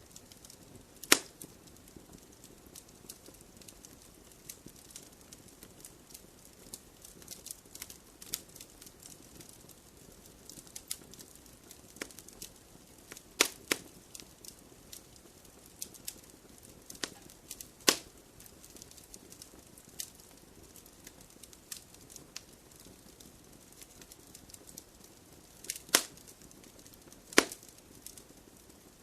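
Wood fire crackling in a fireplace: steady small snaps and ticks over a faint low hiss, with several loud, sharp pops from the burning logs.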